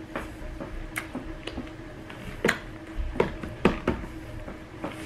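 Close-up mouth sounds of chewing: a scattering of soft wet clicks and smacks, about six in a few seconds, over a faint steady hum.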